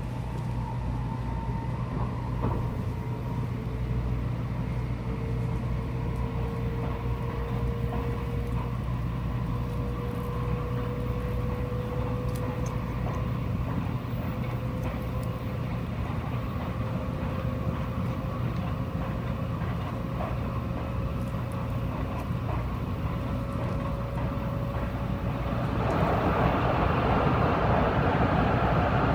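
Shinkansen bullet train running, heard from inside the passenger cabin: a steady low hum and rolling noise, with a thin motor whine that slowly rises in pitch as the train gathers speed. Near the end the noise grows suddenly louder and fuller as the train enters a tunnel.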